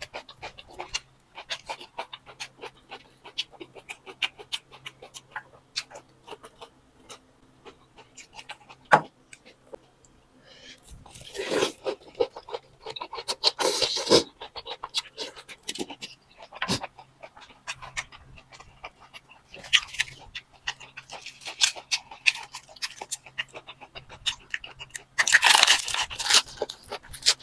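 Close-up eating sounds of a bowl of boat noodles: steady wet chewing clicks, with a few longer slurps about halfway through, around two-thirds in and near the end.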